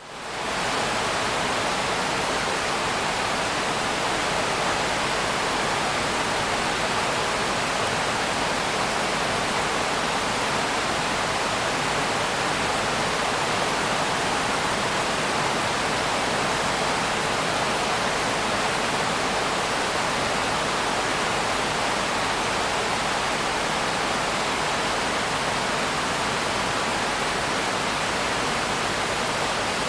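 Steady, even rain noise, a dense unbroken hiss with no separate drops or thunder, fading in over the first half second.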